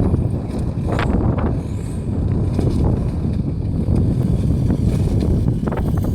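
Strong wind buffeting the microphone, a loud, dense low rumble, with a few brief clicks about a second in and again near the end.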